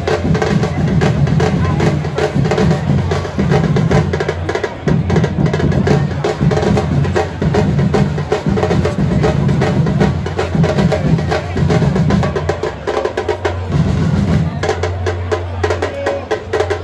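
Football supporters' samba-style drum section (bateria) playing a fast, dense rhythm: deep bass drums under rapid snare and high-drum strokes. The deep drums drop out briefly about two-thirds of the way through.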